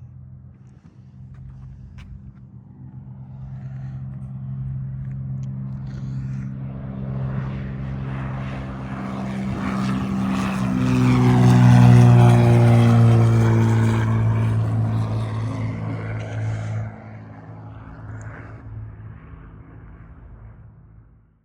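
Slowed-down sound of a CO2-cartridge-powered car's run: a low droning rumble with a falling pitch, building to its loudest about twelve seconds in and dropping off sharply about five seconds later.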